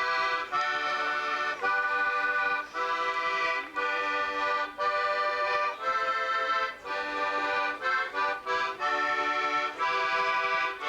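Accordion playing a sea-shanty tune with no singing, a run of held notes and chords that change about every half second, with short breaks between phrases.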